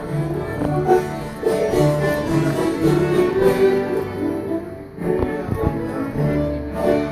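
Bluegrass-style string band music, with fiddle, guitar and banjo over a bass line plodding in a steady rhythm.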